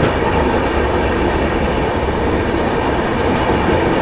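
Rajdhani Express passenger coach running at speed, heard from the doorway of the vestibule: a steady rumble of wheels on rail with rushing noise.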